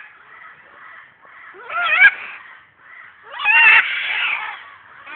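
Caged birds giving loud, harsh calls: one about 2 s in and a longer one about 3.5 s in, over a fainter continuous bird chatter.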